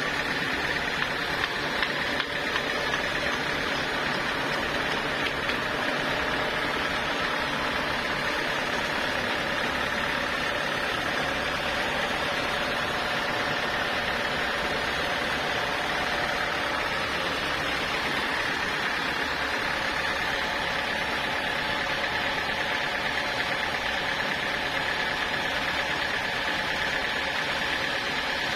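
Sawmill machinery running steadily: a continuous mechanical drone with a faint steady high whine.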